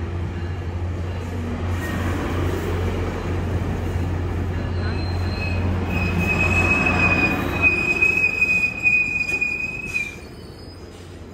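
A Sounder commuter train's bilevel coaches rolling past with a low steady hum. About six seconds in, a high, steady wheel squeal sets in and lasts about four seconds, then the sound drops away sharply.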